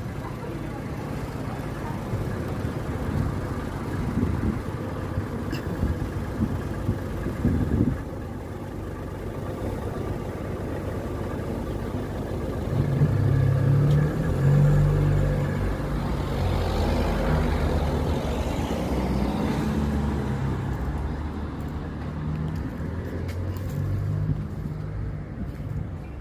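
Motor vehicle traffic: an engine running at low pitch, growing louder about halfway through.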